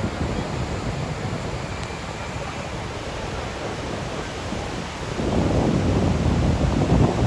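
Steady rushing of a waterfall, mixed with wind buffeting the microphone, growing louder about five seconds in.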